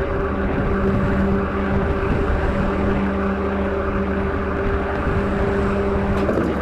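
Truck engine droning steadily at cruising speed, heard over rushing wind and road noise from a bicycle drafting close behind it.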